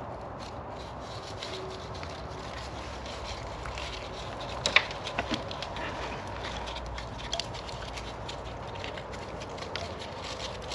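Scattered light knocks and clicks, with a sharper knock about five seconds in, over a steady low background.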